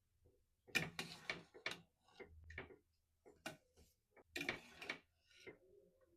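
Faint, irregular clicks and knocks of kitchen items being handled and set down, about eight in all, with a cluster around the middle.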